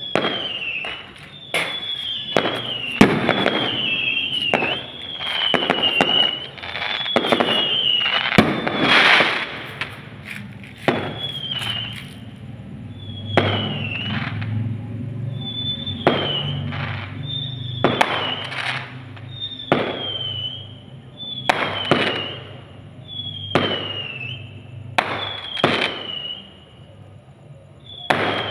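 Fireworks going off: a dense run of sharp bangs in the first half that thins out after about ten seconds. A short falling whistle comes back about every two seconds throughout.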